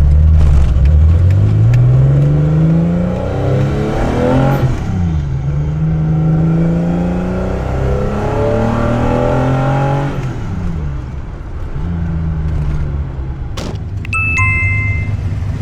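Nissan Skyline C10 'Hakosuka' engine with Solex carburettors, tako header and a Trust 50 mm dual exhaust, accelerating through the gears. The revs climb and drop at a shift about four seconds in, run steady, drop at another shift about ten seconds in, then hold steady. A few short beeps sound near the end.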